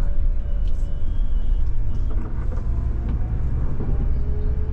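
Heavy road vehicle's engine running with a steady low rumble.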